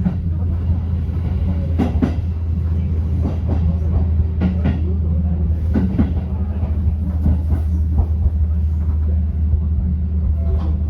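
Electric commuter train running with a steady low rumble and hum, with a few short clicks through it.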